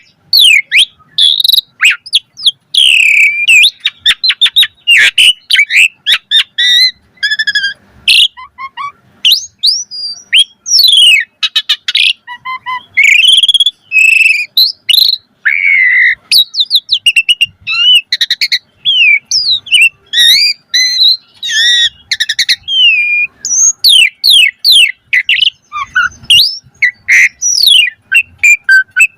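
Asian pied starling (jalak suren) singing a long, varied song of rising and falling whistles, quick chattering runs and short sharp notes, almost without pause.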